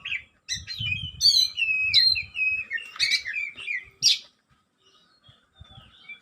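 Oriental magpie-robin (kacer) singing: a rapid run of varied whistled notes and chirps with quick up-and-down glides, lasting about three and a half seconds, then a pause of about two seconds.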